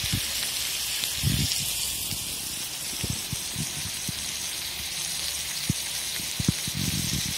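Chicken liver skewers frying in oil on a hot flat griddle: a steady sizzling hiss.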